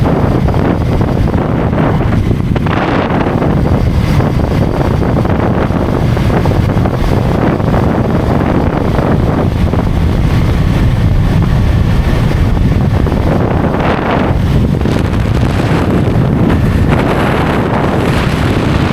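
Wind rushing over the microphone of a motorcycle riding at highway speed: a loud, steady, rumbling rush that swells a little now and then.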